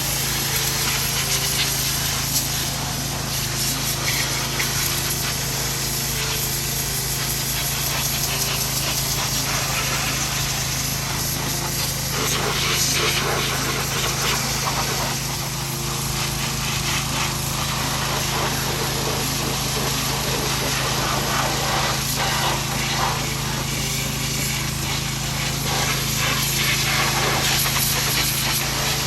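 Pressure washer running steadily, its high-pressure spray hissing as it blasts moss and dirt off an old Ford 8N tractor.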